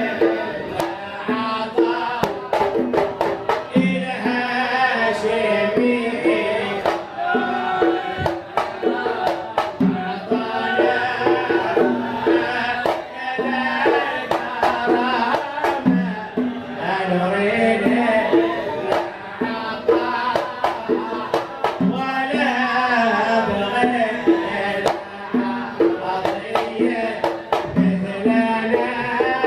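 Devotional sama' singing with hand-drum accompaniment: a sung melody over sharp, regular drum beats.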